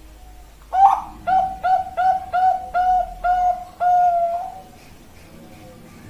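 Bangkok-type zebra dove (perkutut) cooing: a quick run of about eight short, evenly spaced coos that ends in one longer drawn-out note.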